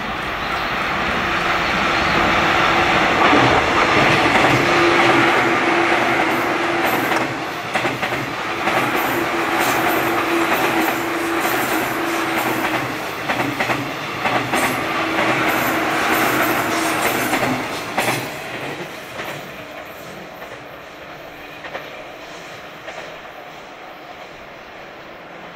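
A 15-car JR 185 series electric train running past on the curve: wheels clattering over the rail joints with a low steady tone under the rumble, and sharp clicks through the middle of the pass. About two-thirds of the way through it begins to fade as the train runs away.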